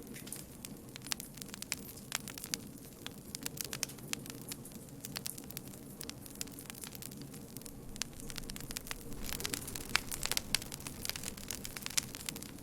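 Campfire burning with a steady low roar and irregular sharp crackles and pops from the wood, which come more thickly in the second half.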